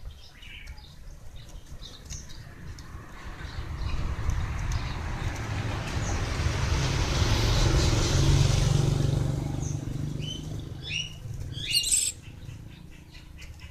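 Small birds chirping in short scattered calls while a vehicle passes, its sound building for a few seconds, peaking in the middle and fading away. A quick run of louder chirps comes near the end.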